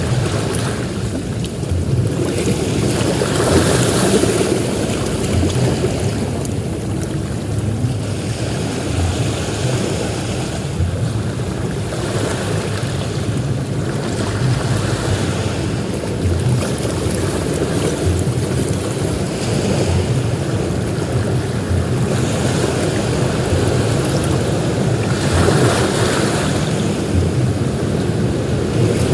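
Ocean surf on a beach: a steady rumble with waves washing in every few seconds, and wind buffeting the microphone.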